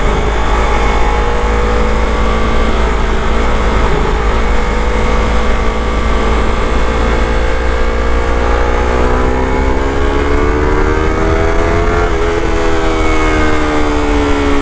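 Yamaha R3's parallel-twin engine through an Akrapovic slip-on exhaust, under way at a steady pitch, then climbing in revs from about nine seconds in to a peak near twelve seconds, a brief break, and the note falling slowly away.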